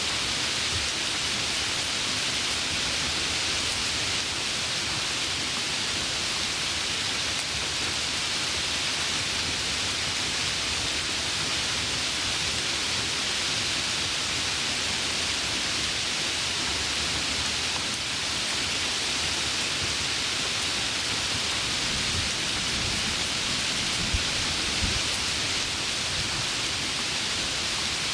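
Heavy, steady rain, with faint low rumbles of distant thunder near the end.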